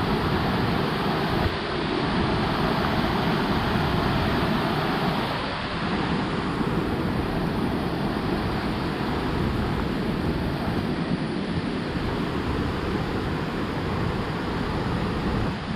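Steady rush of water from a waterfall spilling down a steep rock face: an even noise with no breaks.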